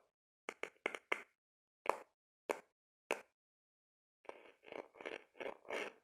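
Close-miked ASMR knocking on an object: six separate sharp knocks spaced irregularly, then after a short pause, from about four seconds in, a run of longer scratching strokes.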